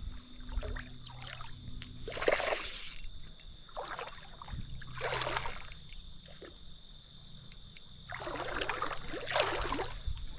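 Hooked smallmouth bass thrashing at the surface of the creek during the fight, several separate splashing bursts with short pauses between.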